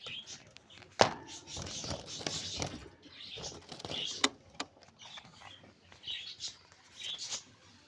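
Pet budgerigars chirping in short bursts, with a sharp click or knock about a second in and another about four seconds in.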